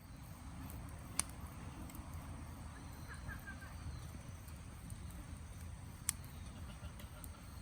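Outdoor ambience: a steady low rumble, with a short run of quick bird chirps about three seconds in and two sharp clicks, one about a second in and one about six seconds in.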